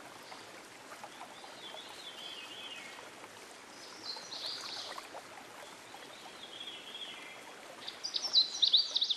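Songbirds singing over a steady background hiss: a descending trill about two seconds in and again about seven seconds in, and bursts of sharp high chirps about four seconds in and near the end, the last the loudest.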